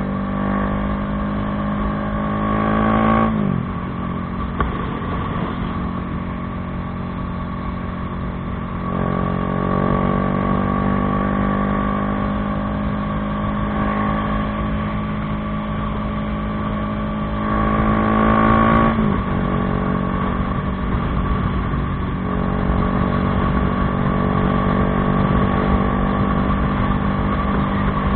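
Bajaj Dominar 400's single-cylinder engine through an aftermarket Akrapovič exhaust, under way. The revs climb and then drop sharply on an upshift about three seconds in and again past the halfway mark, with steadier cruising between and after.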